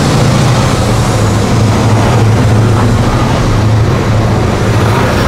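Coal train hopper cars rolling past at close range: steady loud noise of steel wheels on the rails, with a low hum underneath.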